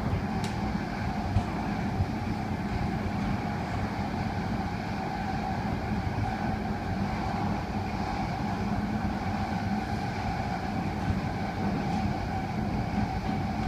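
Inside a moving train carriage: the steady running rumble of the train, with a constant hum and a few light knocks.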